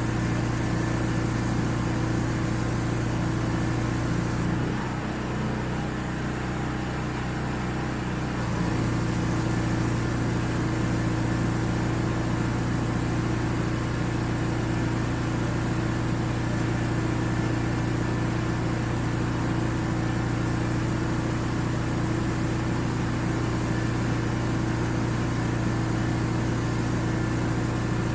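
Pressure washer running steadily with a constant mechanical hum, dropping a little quieter for about four seconds near the start.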